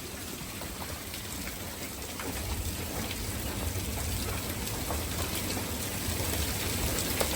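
Hailstorm with heavy rain: a steady hiss of rain with scattered sharp ticks of quarter-size hailstones striking, slowly growing louder.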